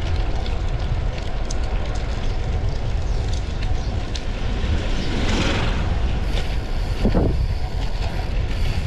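Wind buffeting the action camera's microphone during a bicycle ride, a steady low rumble, with a louder rushing swell about five seconds in and a short sharp burst near seven seconds.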